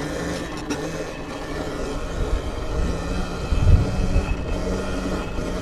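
Electric dirt bike (a Sur-Ron) riding, its motor giving a steady multi-tone whine over tyre and wind rumble, with a heavy low rumble a little past the middle.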